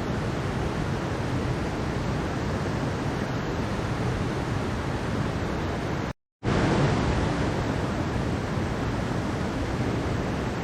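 Mountain stream water flowing and rushing steadily, an even rush of water noise. It cuts out completely for a fraction of a second about six seconds in, then carries on as before.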